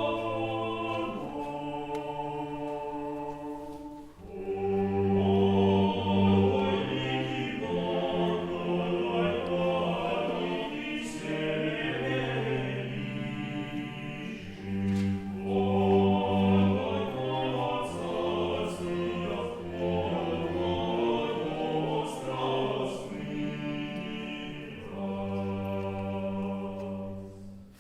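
Choir singing old Russian music in slow held chords over a low bass line, the chords changing every second or two, with a short breath about four seconds in and the last chord dying away near the end.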